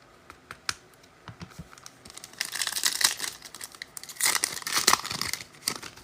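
Foil wrapper of a football trading-card pack being torn open and crinkled. A few light clicks and taps come first, then two bursts of crackling about two and four seconds in.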